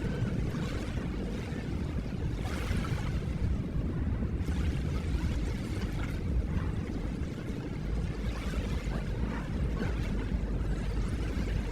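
Ocean waves: a steady low rumble of surf with a swell of washing water every few seconds.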